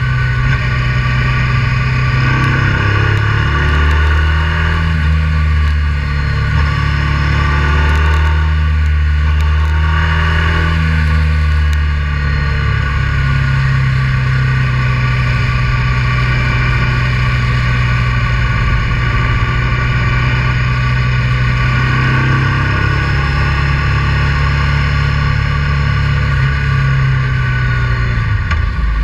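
Honda Transalp 650's V-twin engine running under way at fairly steady revs, its pitch stepping up and down a few times with throttle changes.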